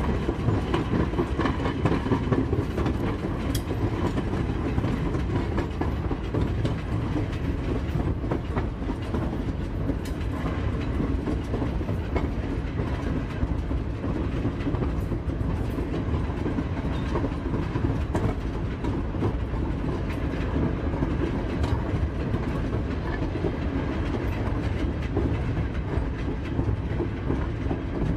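Railroad car rolling along the track: a steady low rumble with faint, scattered clicks of wheels over the rail.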